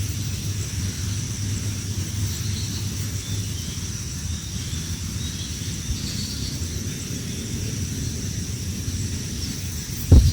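Outdoor ambience: a steady low rumble under a steady high-pitched drone, with a few faint chirps. A sudden loud thump comes right at the end.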